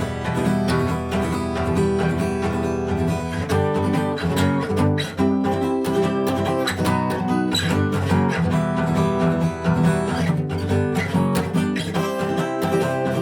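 A guitar strummed in the fast gallop pattern, a quick three-stroke down-up-down rhythm, repeating chords without a voice.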